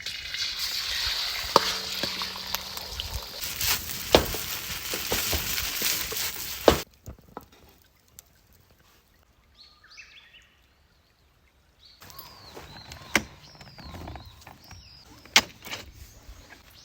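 A loud, steady hiss with sharp clicks and crackles, like cooking over a fire, cuts off suddenly about seven seconds in. After a quiet stretch, birds call with repeated arching chirps, with a few clicks and knocks among them.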